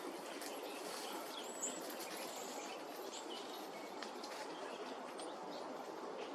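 Small songbirds giving a few short high chirps and calls, one a quick hooked call about a second and a half in, over a steady outdoor hiss.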